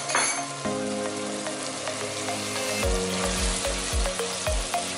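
Minced chicken sizzling in hot oil in a pot, stirred with a spatula from about three or four seconds in. Background music with a low beat plays under it.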